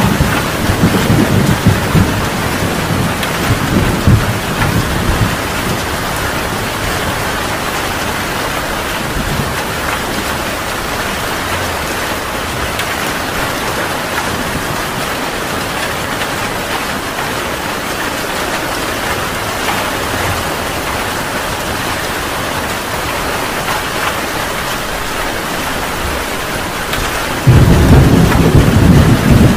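Heavy rain falling steadily, with thunder rumbling and dying away over the first few seconds. Near the end a loud thunderclap breaks in with a deep rumble.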